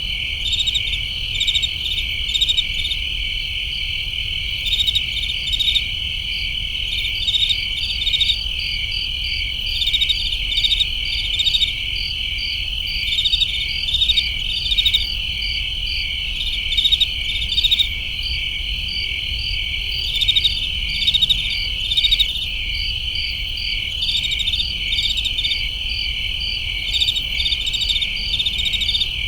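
Crickets chirping in a chorus: a steady high trill, with faster pulsed chirps overlaid that swell in short bunches every second or two.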